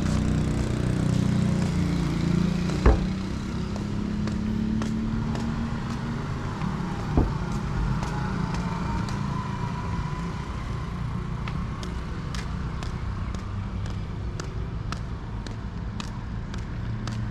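Street traffic: a motor vehicle's engine running close by and passing, with steady hum throughout. Two sharp knocks come a few seconds apart, and a run of light, evenly spaced ticks fills the second half.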